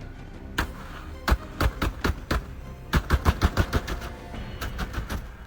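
A string of sharp, irregular cracks or bangs, clustered several a second near the middle, over background music.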